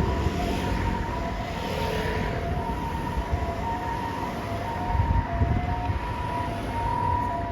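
Ambulance siren sounding a two-tone hi-lo pattern, a high and a low note alternating about every half second, over vehicle engine and road rumble.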